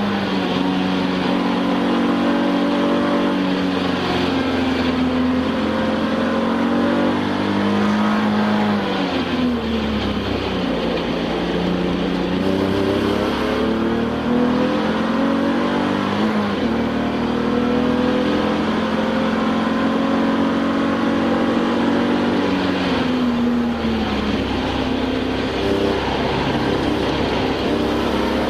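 Touring-class race car engine heard from inside the cockpit at racing speed, its pitch climbing through the gears and dropping on downshifts, with falling runs about nine seconds in and again near the end.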